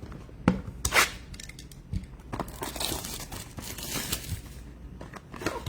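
Trading card packaging being torn open and crinkled, with a sharp knock about half a second in and a tearing rip soon after, then a stretch of rustling and crinkling.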